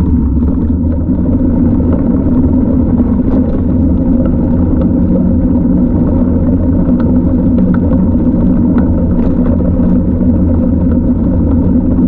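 Loud, steady low rumble of wind and road noise on the microphone while riding, with a few faint clicks scattered through it.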